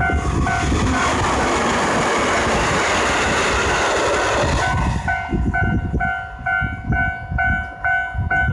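A train passing at speed, its rushing wheel-on-rail noise filling the first half, then dying away about halfway through. A level-crossing alarm bell dings steadily about twice a second throughout and is heard clearly once the train has gone by.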